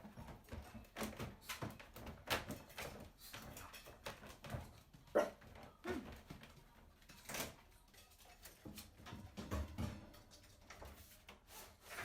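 Dog sounds: a few short whimpers among scattered clicks and knocks of movement.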